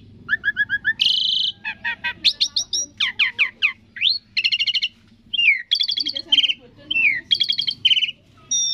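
Asian pied starling (jalak suren) singing a rapid, varied song of whistles, quick repeated notes, trills and rising and falling slurs, in short phrases with brief gaps between them.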